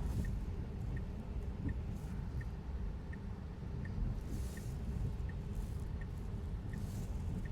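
Tesla's turn-signal indicator ticking steadily, about one click every 0.7 seconds, for a left turn, over the low rumble of the car's cabin. A couple of soft swishes come in past the middle.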